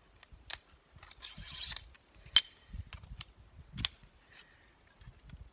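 Metal clicks and clinks of a folding bow saw being assembled, its blade being fitted into the frame: a short scrape about a second in, then a sharp click, the loudest, and a lighter click about a second and a half later.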